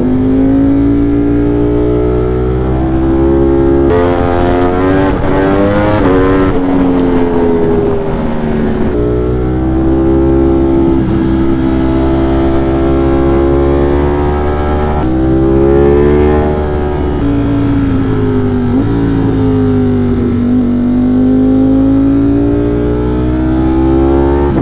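A 200-plus-horsepower motorcycle's engine under way. Its pitch climbs under throttle and drops sharply at each upshift, several times, and near the end falls away as the bike slows before it pulls again.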